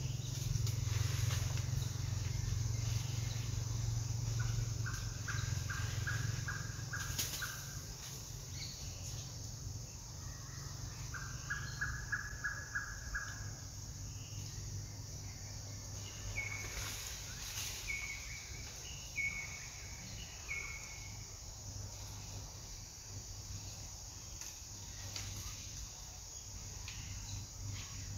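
Bird calls: a quick run of about eight even notes, heard twice in the first half, then four short higher notes one after another. Under them are a steady high hiss and a low hum that is strongest in the first few seconds.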